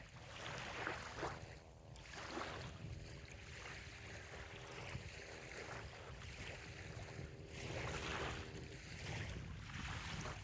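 Small waves lapping softly on a sandy bay shore, a gentle swish every second or few, over a steady low wind rumble on the microphone. A faint steady hum sits underneath through most of it.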